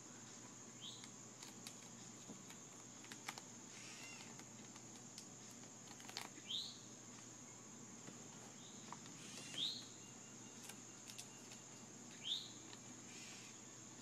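A bird giving short, faint chirps every few seconds over a steady high-pitched hiss, with a couple of sharp clicks in between.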